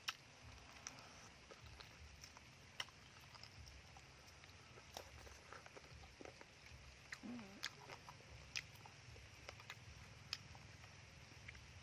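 Faint eating sounds: chewing, with scattered small clicks and crunches.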